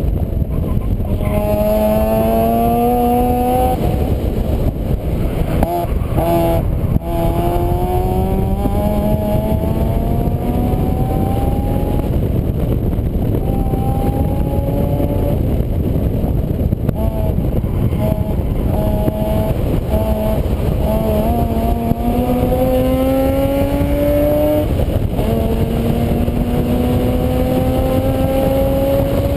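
Vehicle engine pulling through the gears: its pitch climbs slowly and drops back at each shift, several times over. A heavy, steady low rumble lies under it.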